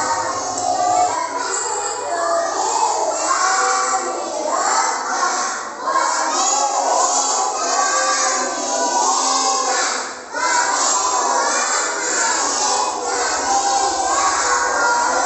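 A group of young children's voices singing together in unison, a prayer recited before the lesson begins.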